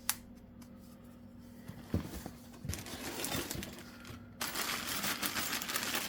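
Plastic packaging crinkling and rustling as heater parts are handled, after a click and a knock; the rustling grows louder and denser about four and a half seconds in.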